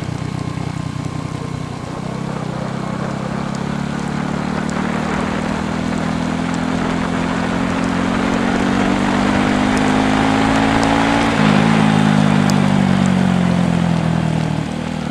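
Motorcycle engine pulling under way, its pitch rising steadily for several seconds, then dropping suddenly about eleven seconds in, as at a gear change, and easing down after. A steady rush of wind and road noise runs under it.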